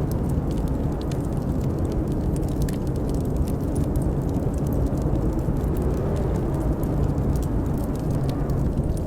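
Blizzard wind blowing in a steady low rumble, with a faint wavering howl, layered with a log fire crackling in small, quick, scattered pops.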